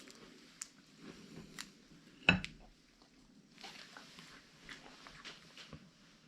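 Siberian husky eating grilled mackerel: scattered soft chewing and biting clicks, with one louder click a little past two seconds in.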